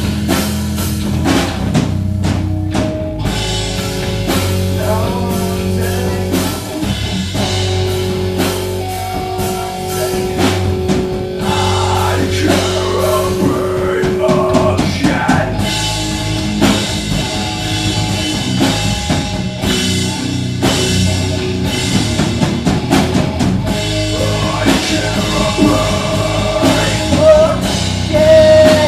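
Rock band playing live, a drum kit keeping the beat under held instrument notes, with some singing.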